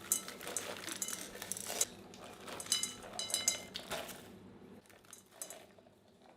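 A series of light clinks and taps of hard kitchenware being handled, some with a short high ring, growing sparser toward the end.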